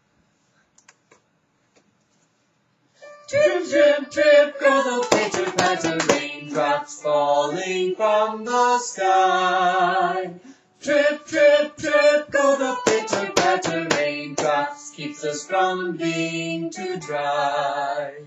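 Near silence, then singing begins about three seconds in and carries on, with a short break around eleven seconds.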